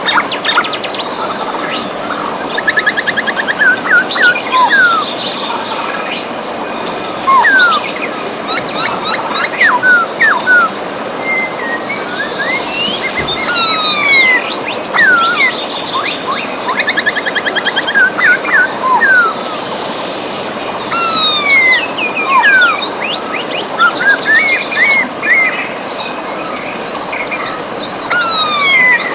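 Several birds chirping and singing: many short whistled notes, quick pitch glides and rapid trills, over the steady rush of river water.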